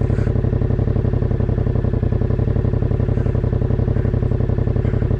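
Yamaha 689 cc CP2 parallel-twin motorcycle engine running at a steady cruise, its exhaust pulsing evenly with no rise or fall in pitch.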